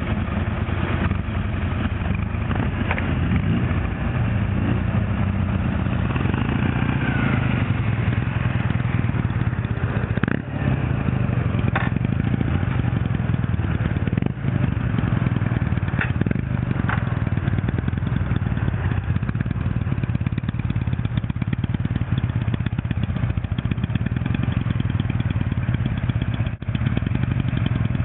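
Old motorcycle engine running steadily at an even speed, with a few sharp clicks now and then.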